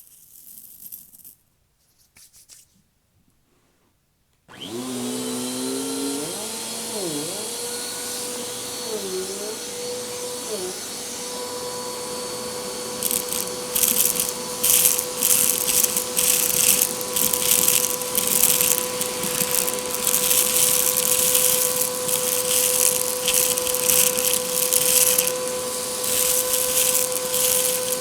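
A compact vacuum cleaner switches on after a few seconds of near quiet, its motor whine wavering in pitch as it spins up, then holding steady. About halfway through, a loud, irregular crackling rattle joins in as river rocks are sucked up and clatter through the vacuum.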